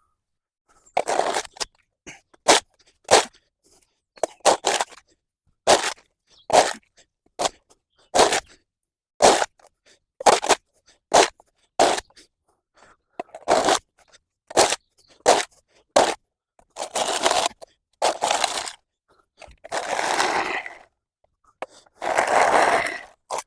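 A hand tool clearing path debris: about twenty short scraping strokes with pauses between them, and a few longer drawn-out scrapes near the end.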